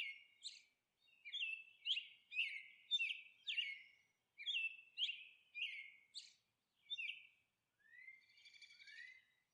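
Faint bird chirping: short high chirps repeating about twice a second, then a few softer upward-sliding chirps near the end.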